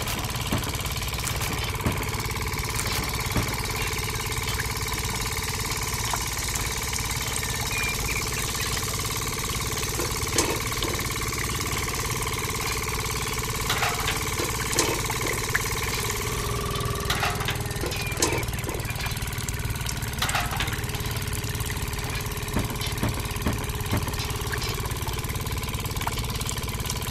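Small engine idling steadily, with a continuous low rumble. A faint whine in it changes pitch slightly about halfway through, and a few light clicks sound over it.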